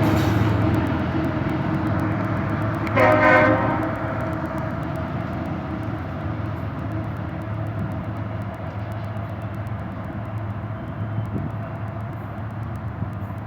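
Diesel freight locomotive running past, its engine drone slowly fading, with one short horn blast about three seconds in.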